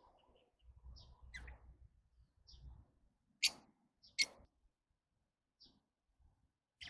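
Lovebirds giving short, sharp chirps one at a time, spaced about a second apart, with two louder, shriller chirps about three and a half and four seconds in.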